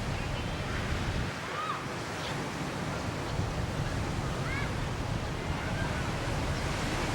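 Ocean surf washing on a beach, a steady rush. A few brief high calls rise above it now and then.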